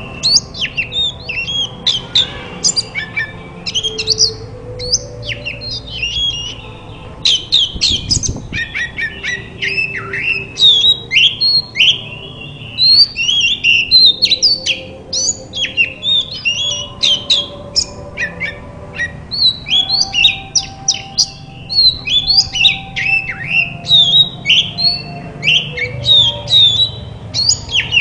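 Oriental magpie-robin (kacer) song: a fast, unbroken run of sharp chirps, sweeping whistles and rasping notes, played as a therapy track to get a silent kacer singing.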